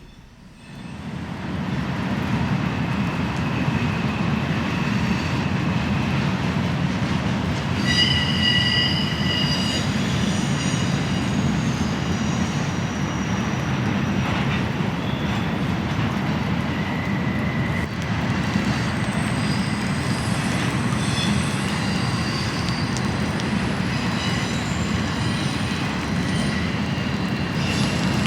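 A train rolling past with a steady low rumble. From about eight seconds in, its wheels squeal in high, thin tones that come and go.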